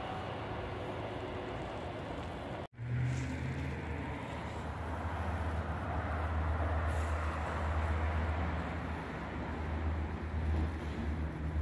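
A TGV high-speed train running past as a steady rushing rumble, which cuts off abruptly about three seconds in. Then the low, steady engine drone of a diesel train approaching from a distance, slowly growing louder.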